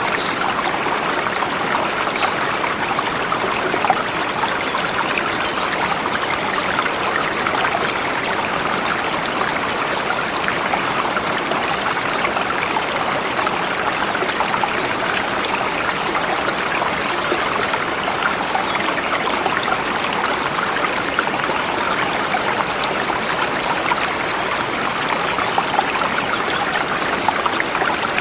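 A forest river flowing steadily over rocks, a constant rushing and trickling of water.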